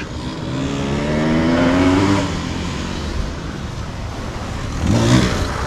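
Dirt bike engine revving, its pitch rising for about two seconds and then running on more steadily. A brief voice is heard near the end.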